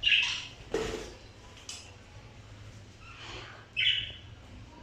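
Pet parrots giving short squawking calls, three times over a few seconds, with a sharp knock just before the first second.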